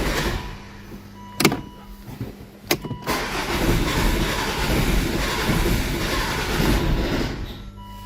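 A Volvo's engine being cranked on the starter motor without catching, with two sharp clicks in the first few seconds, then a steady run of cranking that fades near the end.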